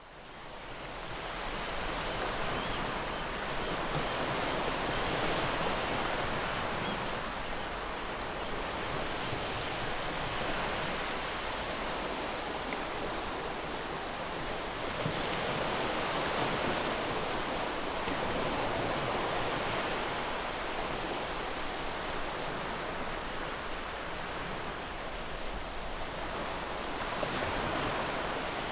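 Sea waves washing in: a steady rushing noise that swells and eases every few seconds, fading in over the first couple of seconds.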